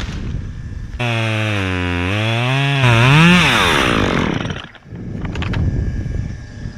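Two-stroke top-handle chainsaw cutting wood: the engine note sags under load, climbs sharply about three seconds in, then falls away as the throttle is let off at about four and a half seconds.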